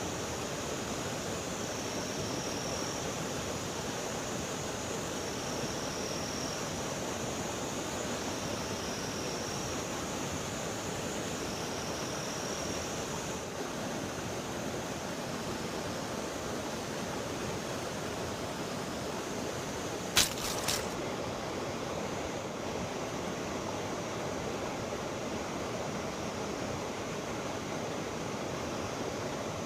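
Steady rush of flowing river water. Two sharp clicks come close together about two-thirds of the way through.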